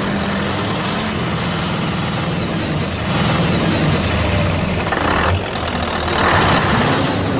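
A vehicle engine running steadily with a low hum, getting louder and rougher for a stretch about six seconds in.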